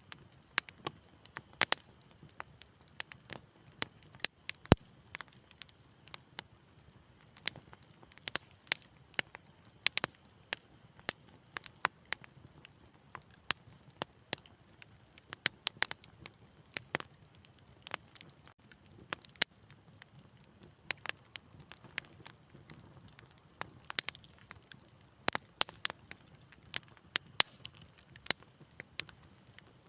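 Wood fire crackling: irregular sharp pops and snaps, several a second, over a faint low rumble of the flames.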